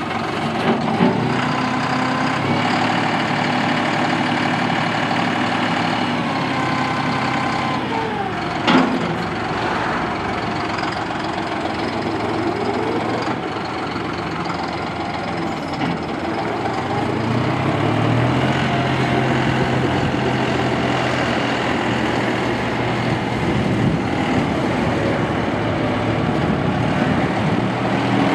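John Deere 5055E tractor's three-cylinder turbo diesel engine running, its speed falling about eight seconds in, with a single knock, then rising to a steady higher speed a little past halfway.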